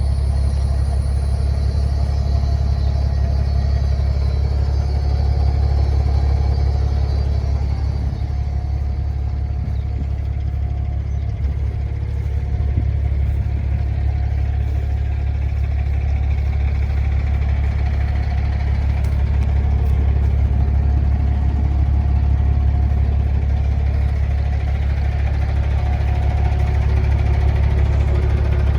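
The compressed-natural-gas engine of a Kenworth T800 semi truck running steadily with a deep engine note. It grows slightly louder in the last ten seconds or so.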